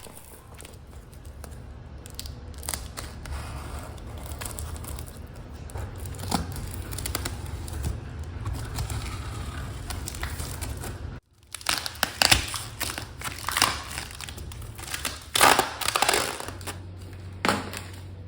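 Crinkling and rustling of things being handled, with a low steady hum underneath. After a sudden drop-out about 11 seconds in, the rustling comes louder in several separate bursts.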